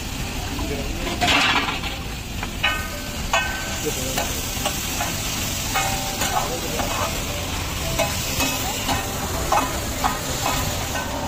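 Sliced onions and greens sizzling on a large flat iron tawa while a steel ladle and spatula scrape and clank across the hot plate, stirring them, in irregular sharp strikes over a steady sizzle.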